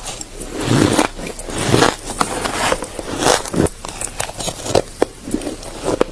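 Ice being bitten and crunched between the teeth: a run of irregular crunches with sharp cracks among them.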